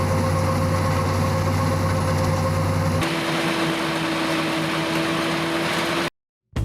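Heavy machinery running steadily with a constant hum, changing abruptly about three seconds in to another steady machine sound with a lower-pitched tone, then cutting out just before the end.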